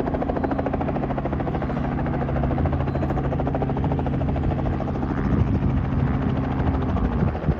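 Robinson R44 helicopter running close by: a fast, even rotor beat over a steady engine hum. Near the end the engine's pitch wavers and drops slightly.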